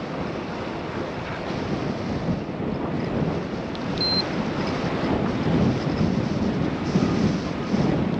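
Wind rushing over a GoPro microphone while cycling, a steady fluctuating rush that grows a little stronger in the second half. A brief high tone sounds about four seconds in.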